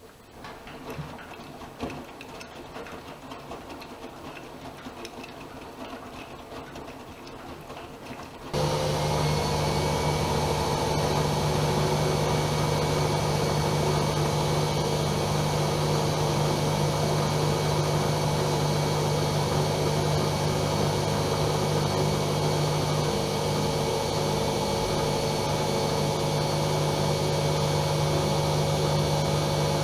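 AEG Öko-Lavamat Lavalogic 1600 washing machine mid-cycle. At first there are faint clicks and rustling, then about eight and a half seconds in a loud, steady motor hum starts suddenly and holds at an even pitch.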